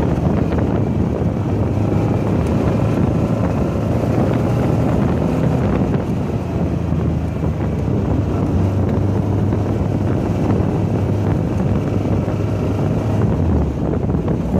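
Car engine running under load at track speed, heard from on board, with wind buffeting the microphone.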